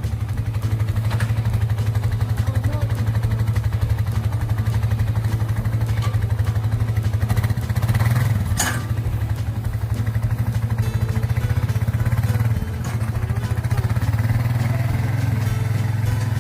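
Four-wheeler (ATV) engine running steadily at low speed while towing a log slung in a log arch. There is a single sharp knock about eight and a half seconds in.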